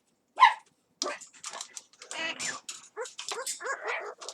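Yellow-crowned amazon parrot vocalizing: a sharp, loud squawk about half a second in, then a run of short, chattering, speech-like calls.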